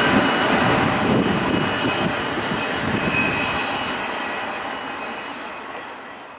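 Double-stack intermodal freight train rumbling away down the line, the noise of its wheels and cars echoing through the valley and fading steadily.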